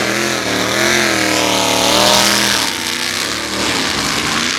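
Diesel drag-racing truck engine running hard under acceleration, its note rising and wavering and loudest about two seconds in. The note dies away near three seconds in, leaving a steady rumble.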